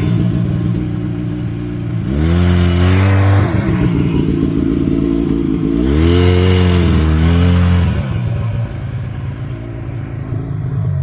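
Buran snowmobile's two-stroke engine revving hard twice, its pitch rising and falling each time before it drops back to a lower, steadier run. The machine is working its way out of slushy overflow onto the packed track.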